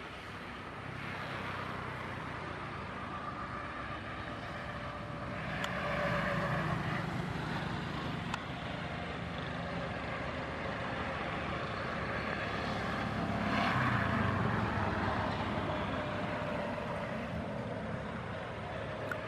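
Boeing 737-800 jet engines running at taxi power, a steady hum and whine that swells twice as thrust is added.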